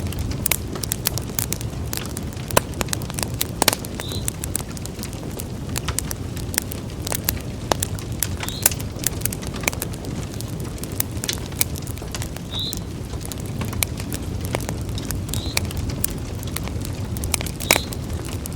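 Wood fire crackling and popping in a fireplace: irregular sharp crackles over a steady low rumble of the flames, with a few brief high squeaks.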